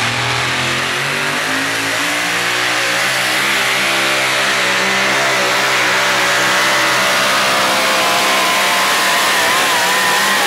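Super modified front-wheel-drive pull truck's engine running at high revs under a truck pull. A loud, steady note that wavers a little in pitch and holds up throughout.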